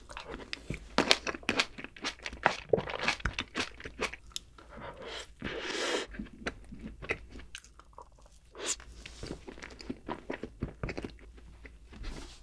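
Close-miked eating of chocolate desserts, fresh berries and an Oreo ice cream sandwich: many short, sharp crunches and chewing, with a longer crunching bite about six seconds in.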